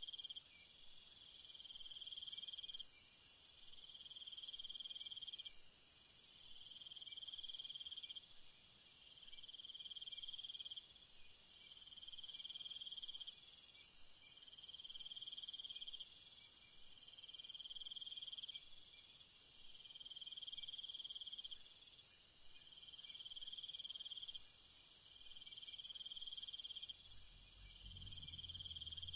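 Night insect chorus of crickets. A very high continuous trill drops out twice and returns, over a lower chirring call about a second and a half long that repeats roughly every two seconds. A low rumble comes in near the end.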